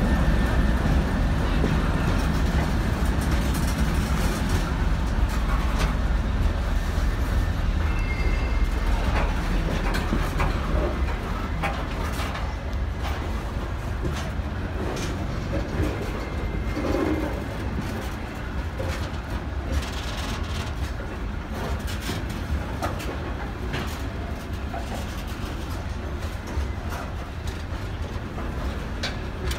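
ChME3T diesel shunting locomotive passing at the head of a long freight train. The low rumble of its engine is strongest at first and fades over about the first ten seconds. After that the freight wagons roll by with a steady rolling noise and repeated clicks and knocks of wheels over the rail joints.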